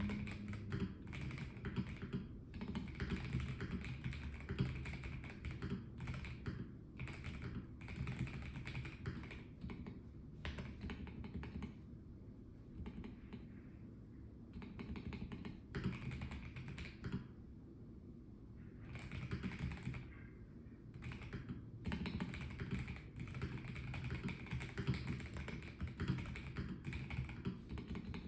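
Typing on a Melgeek Mojo84 mechanical keyboard with a plastic case: quick runs of key clacks, broken by short pauses about halfway through and again a few seconds later.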